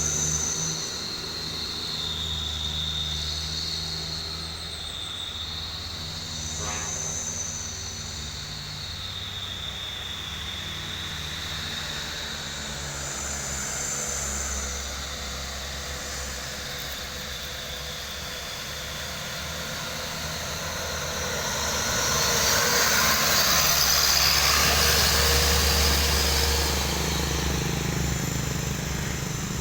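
Heavy truck engines running steadily at low revs while trucks squeeze past each other on a narrow road. About two-thirds of the way through, a louder rushing swell builds and then fades.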